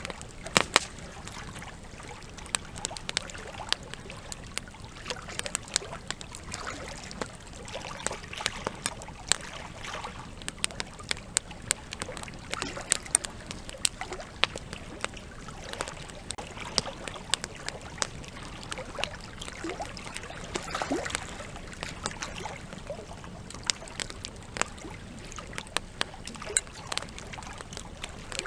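Wood campfire crackling with frequent irregular pops, over the steady flow of a river. The loudest pops come just under a second in.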